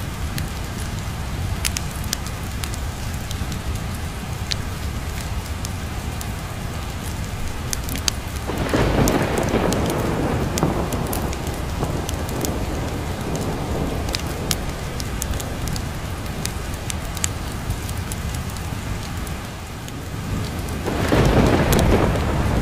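Steady rain over a low rumble, broken by two rolls of thunder: one swelling about nine seconds in and fading over a few seconds, another near the end. Scattered sharp ticks run through it.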